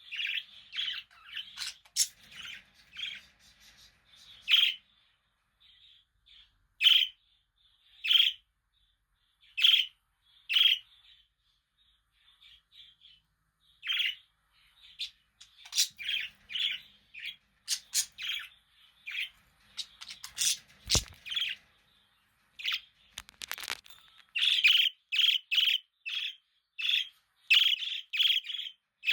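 Budgies chirping and squawking in short high calls, scattered at first, then a quick run of chirps near the end. A single knock about two-thirds of the way through.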